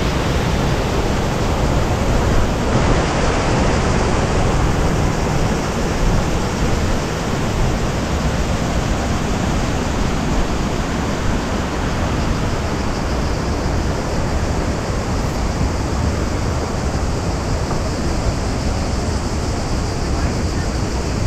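Waterfall rushing steadily: a dense, even noise of falling water.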